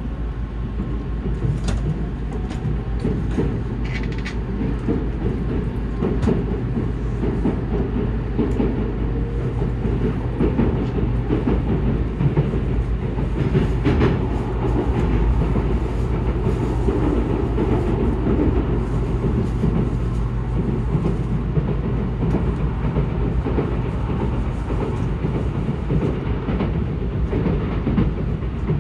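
Steady running noise inside a JR N700S Shinkansen car at speed: a low rumble of wheels on rail and car body. A faint whine rises gently in pitch over the first few seconds, and scattered light clicks come through.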